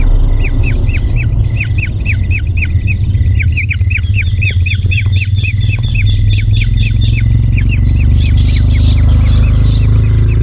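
A bird calling in a fast, even series of short falling notes, several a second, over a steady pulsing insect trill like a cricket's and a low rumble.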